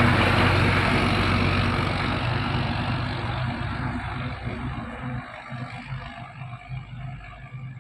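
Mitsubishi Fuso tronton truck's diesel engine running as the truck passes and draws away, fading steadily.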